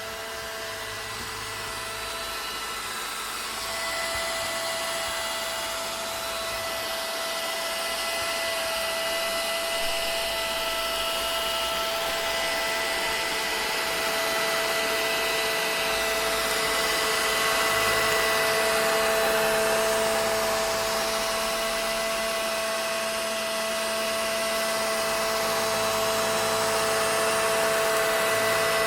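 Vacuum cleaner running steadily: a continuous whooshing hiss with a steady motor whine. The loudness swells and eases slowly but never breaks.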